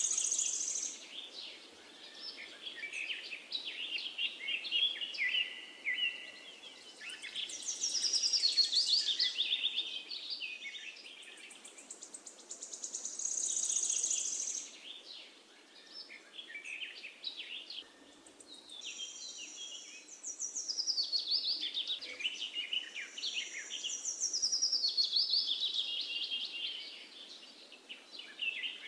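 Birds singing: quick chirping and trilling phrases one after another, several running down in pitch, over a faint steady hiss.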